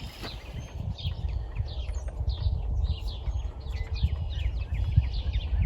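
Small birds chirping, short quick notes several times a second, over an uneven low rumble.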